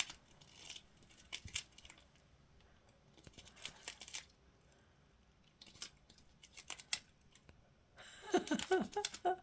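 A budgie working at its toys with its beak: irregular clicks, scrapes and rustling in short clusters as it pulls at and moves the pieces. A brief murmur of a person's voice comes near the end.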